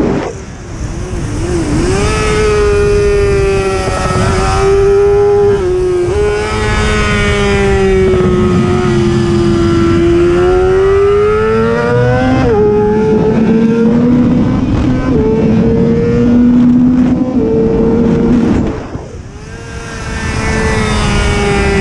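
Racing superbike engine at high revs, its pitch climbing and sagging with speed and jumping at several gear changes. About 19 seconds in the engine drops off and goes quieter for a moment before it picks up again.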